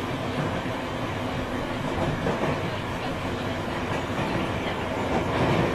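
Running noise of a chopper-controlled Tobu 9000 series electric train: wheels on the rails and a steady hum of level motor tones. The uploader calls this car's unusual motor sound rare, more like a Tokyo Metro 8000 series than the usual chopper-car sound.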